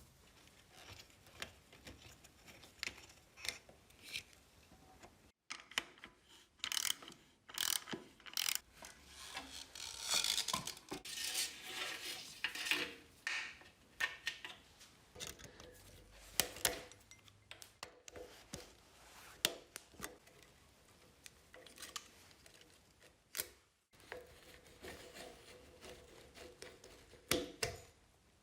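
Workshop hand work on metal parts: an irregular run of clicks, light knocks and scraping or rubbing. It breaks off briefly twice.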